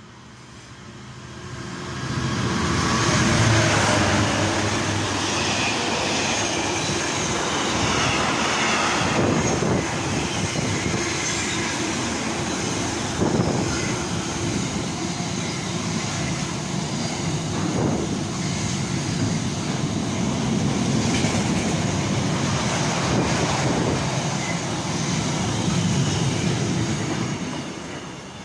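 Container freight train passing at speed: the noise builds sharply about two seconds in as the head of the train arrives, then a long steady rumble of container wagons' wheels on the rails with a few sharp clanks, fading near the end as the last wagons go by.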